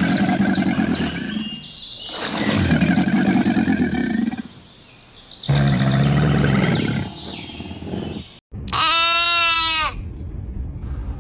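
Three long, low animal calls, then, after a sudden cut, two quavering bleats of a goat or sheep.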